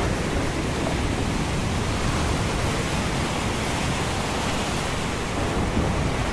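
Ocean surf and storm noise blended into a steady, even rushing wash, with no distinct wave crash or thunderclap standing out.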